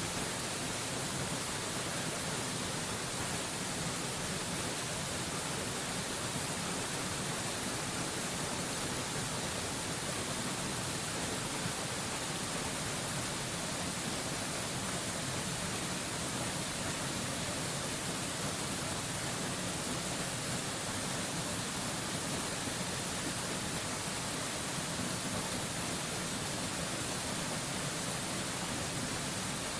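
Waterfall white noise: an unbroken, even rush of falling water with a strong hiss in the highest pitches. It holds a constant level, with no splashes or changes.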